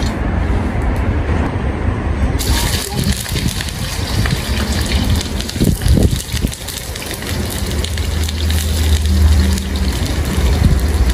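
Hot cooking oil in a wok over a camp burner; about two seconds in, food goes into the oil and a steady sizzle starts and keeps on, over a low rumble.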